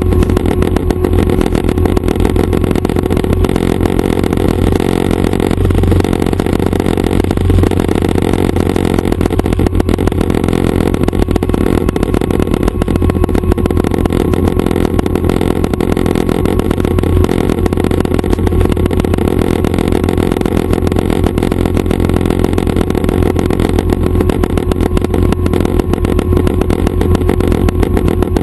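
Schweizer 269 light helicopter's piston engine and rotors running, a loud, steady drone with a strong low hum and no change in pitch.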